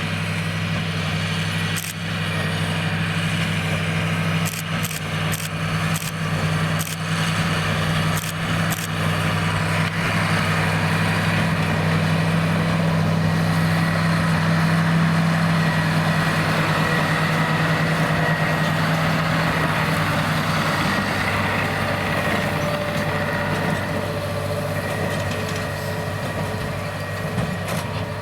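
John Deere 8330 tractor's six-cylinder diesel engine running steadily while pulling a Krone BigPack square baler, with a thin steady whine and a run of sharp clicks a few seconds in. The engine tone shifts about three quarters of the way through.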